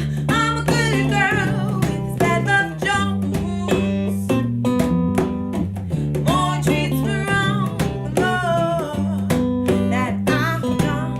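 A band playing a song: strummed guitar over a bass line, with a singer's wavering, sustained notes.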